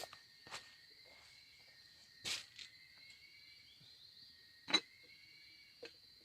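Forest insects trilling steadily on two high pitches, with four short sharp clicks or taps scattered through, the loudest about three-quarters of the way in.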